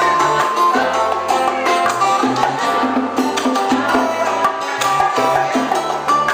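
Live Cuban son/salsa band playing: a bass line, strummed and plucked guitar and hand percussion in a steady rhythm.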